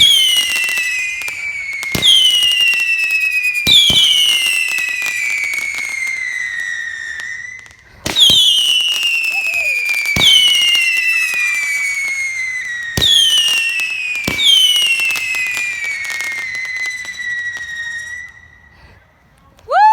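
Whistling fireworks going off one after another: each starts with a sharp pop and a shrill whistle that falls in pitch over about two seconds, about seven in all, with a short break about eight seconds in. The whistling dies away near the end.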